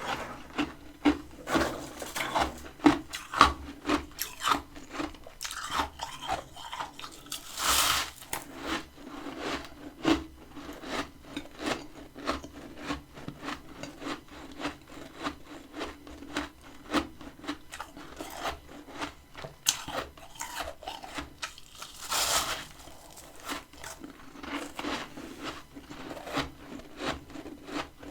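Close-up biting and chewing of freezer frost, a dense run of crisp crunches and crackles. Twice a longer swishing scrape cuts in.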